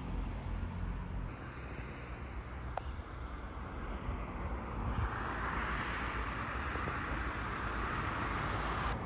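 Steady low rumble of road traffic, with a hiss swelling about five seconds in as a vehicle goes by.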